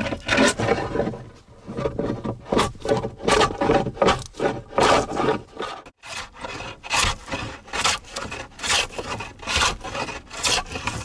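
Rhythmic scraping strokes of a hand tool worked back and forth on wood, about two strokes a second, with a brief pause about six seconds in.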